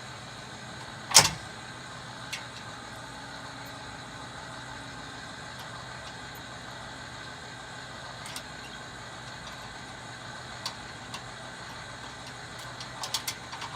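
Clanks from hitching a camper trailer to a truck: one loud sharp metal clunk about a second in, then a few faint clicks and a quick cluster of light metallic clinks near the end, as of the safety chains being handled, over a steady low hum.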